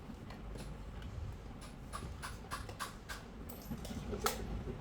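Irregular light clicks and taps of parts being handled in a workshop, over a steady low hum; one sharper click near the end.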